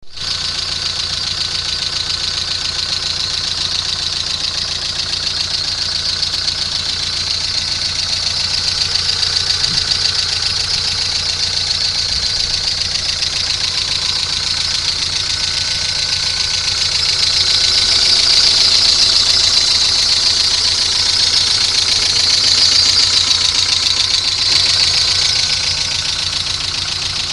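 Volkswagen Golf Mk3 engine running steadily at idle, with a strong high-pitched hiss over the low engine note, getting a little louder partway through.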